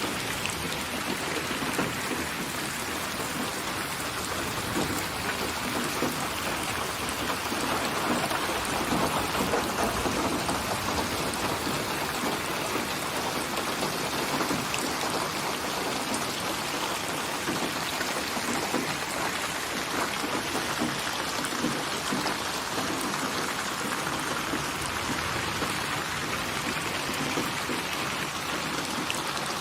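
Steady rainfall, dense drops pattering on a surface, swelling slightly in loudness about a third of the way in.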